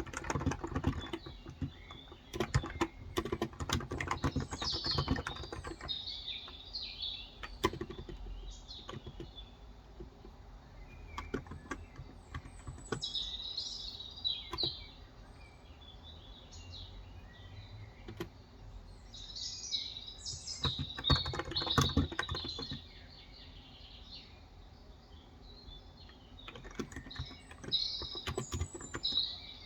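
Typing on a Cox Endeavour electro-capacitive (contactless) tenkeyless keyboard with 35 g switches, in bursts of keystrokes separated by short pauses. Birds chirp in the background in several bouts, the loudest near the middle and toward the end.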